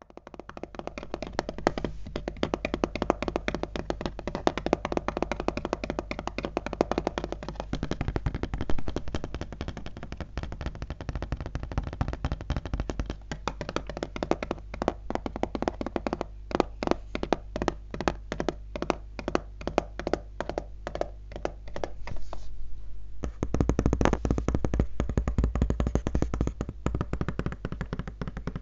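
Fast fingertip and nail tapping on a laptop, a quick, dense run of taps that becomes a more even rhythm partway through. A short pause near the end is followed by a louder, denser burst of tapping.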